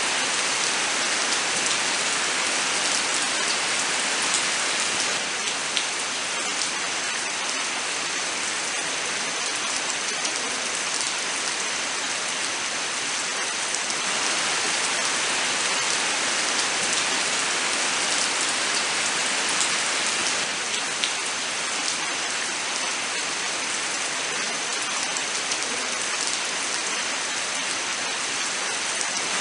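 Steady rain falling, an even dense hiss with scattered sharper ticks of individual drops.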